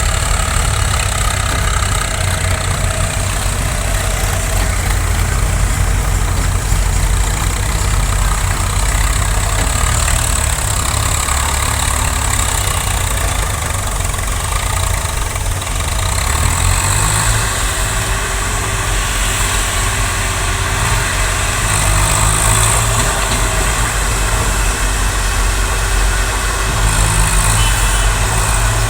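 Diesel tractor engine running steadily, a loud low throb whose pitch shifts about halfway through.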